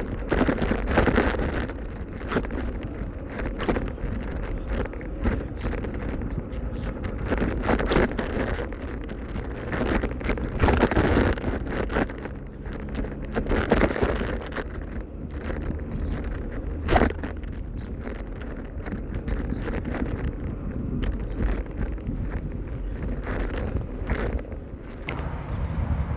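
Wind buffeting the microphone during a bicycle ride, a gusty rumbling noise that swells and falls every second or two, with road noise under it.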